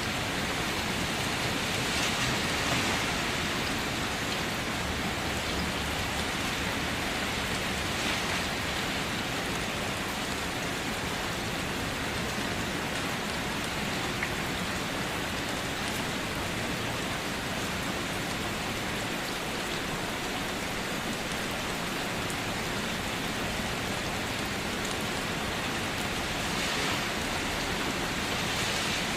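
Steady rain falling on a surface: an even hiss with scattered sharper drop ticks, swelling slightly a couple of seconds in and again near the end.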